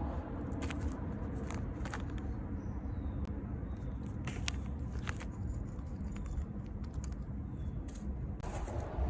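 Steady low outdoor rumble, like distant road traffic, with scattered sharp clicks and crunches of peanut shells being cracked open, and a few faint high bird chirps.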